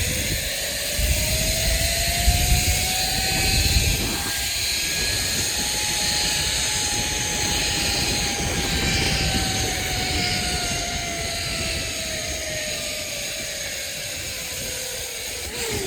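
Zip line trolley pulleys running along the steel cable: a whine that rises in pitch over the first few seconds as the rider picks up speed, then falls slowly as the trolley slows. Wind rushes over the microphone, heaviest in the first few seconds.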